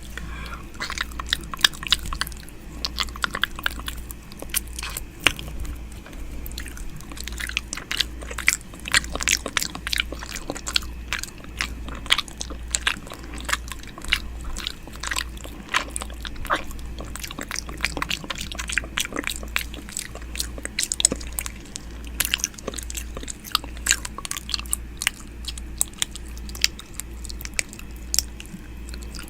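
ASMR 'ear eating' mouth sounds made right at the microphone: wet clicks, smacks and nibbling noises coming several times a second, over a faint steady low hum.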